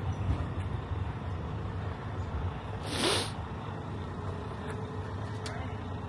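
Heavy truck's engine idling with a steady low rumble, and a short hiss of released air about halfway through.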